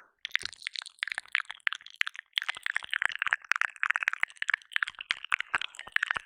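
Close-miked ASMR mouth sounds: rapid, irregular wet clicks, smacks and licks made right against the ears of a 3Dio binaural microphone.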